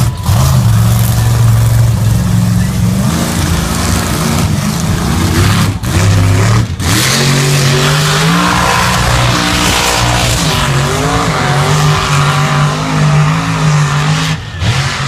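Chevy square-body mud-bog truck's engine running hard at high revs, its pitch stepping up and down as the throttle is worked, with a heavy rushing noise of tires churning mud. The sound dips briefly twice, about six and seven seconds in.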